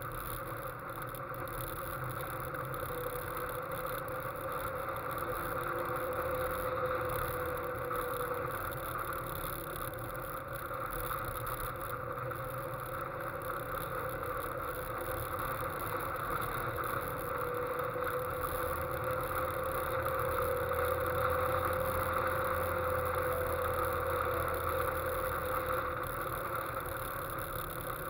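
Westfield sports car driving at a steady cruise on a country road, heard from the car itself: a constant engine note that rises and falls gently with the throttle, under a steady rush of wind and road noise.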